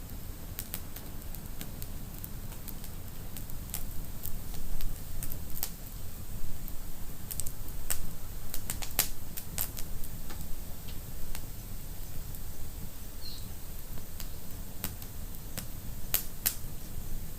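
Wood fire in a fireplace crackling: irregular sharp pops and snaps, a few louder ones in the middle, over a low steady rumble.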